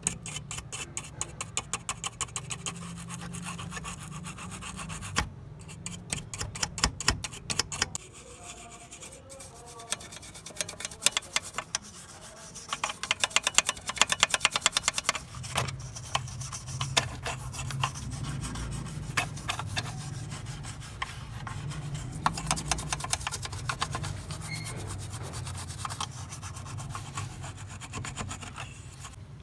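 Quick, regular back-and-forth rubbing strokes on a lamp part, coming in several spells with short pauses between.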